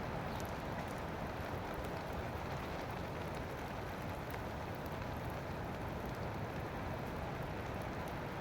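Rain falling steadily, a constant hiss with scattered sharp drop ticks.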